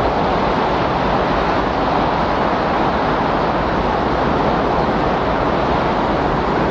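Recorded windstorm ambience: a steady, unbroken rushing of strong wind.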